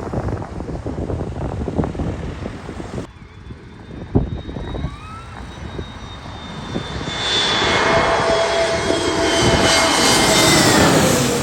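Wind buffeting the microphone for the first few seconds, then an airliner's engines with a high whine, growing louder as the plane comes in low and dropping in pitch as it passes by near the end.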